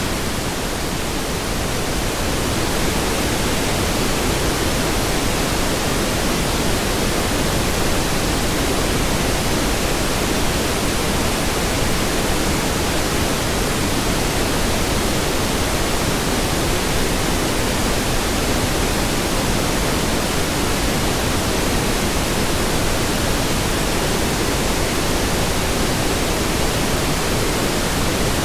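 Steady pink noise: an even hiss spread across all pitches, fuller in the low end, with a slight dip in level during the first couple of seconds.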